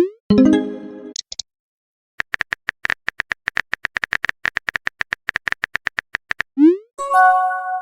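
Phone-chat sound effects: rapid, even keyboard-typing clicks through most of the clip. Twice, once at the start and once near the end, a short rising swoosh is followed by a chime-like message tone.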